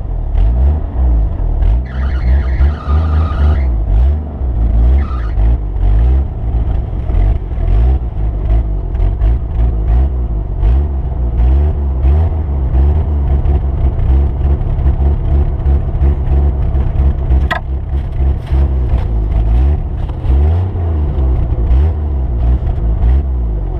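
Motor vehicle engine running under load, its pitch rising and falling again and again as it revs up and back down, over a constant deep rumble.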